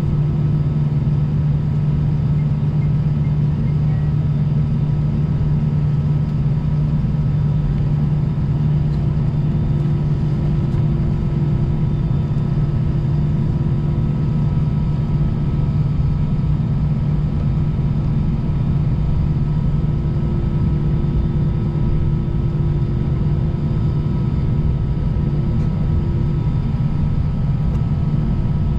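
Airbus A320-200 cabin noise while taxiing: the jet engines running at idle give a steady low rumble with a constant hum, and fainter steady whines above it.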